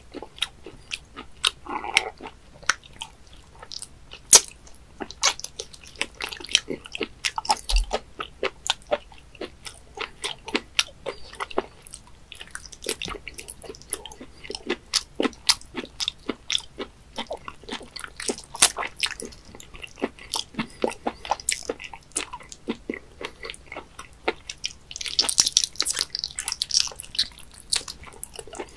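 Close-miked chewing of raw webfoot octopus sashimi: a dense run of wet, sticky mouth clicks and smacks as the tentacles are chewed. A longer wet slurp comes near the end as a tentacle is drawn into the mouth.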